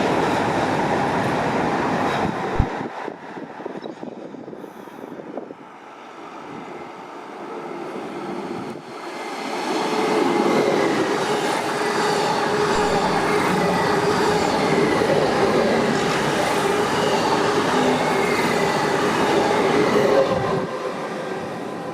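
A train passing through the station without stopping: wheels rolling on the rails, with a sharp knock early on. The noise eases off, builds again about ten seconds in, holds steady, then drops away near the end.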